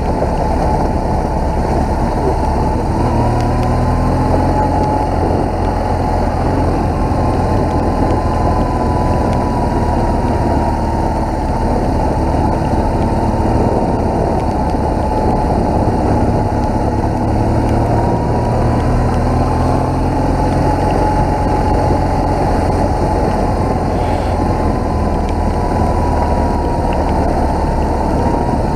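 BMW R1200GS boxer-twin engine running under way, its note rising and falling slightly, under a steady rush of wind noise.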